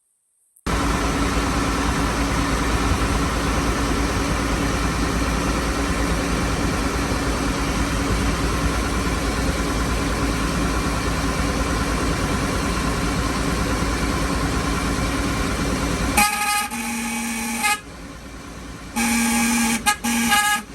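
A loud engine running steadily, which cuts out after about fifteen seconds and is followed by two horn blasts, each about a second and a half long.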